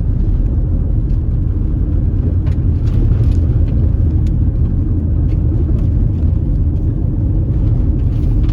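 Car driving on an unpaved, dusty road: a steady low rumble of tyres and engine, with light scattered ticks.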